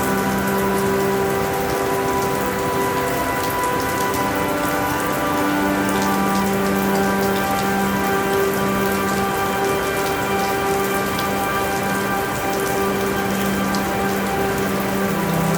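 Steady rainfall, a dense even hiss scattered with fine drop ticks. Soft held low tones shift in pitch every few seconds underneath.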